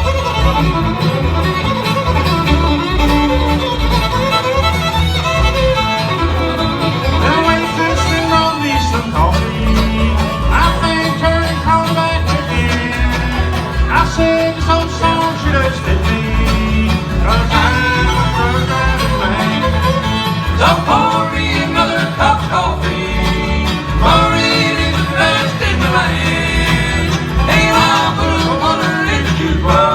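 Live bluegrass band playing an instrumental break: fiddle leading with sliding, bending notes over guitar and banjo, with a steady bass beat.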